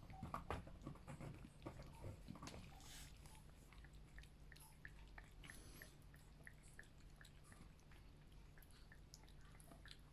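Cats eating from their bowls: faint chewing and small crunching clicks, busier in the first few seconds and then sparse ticks.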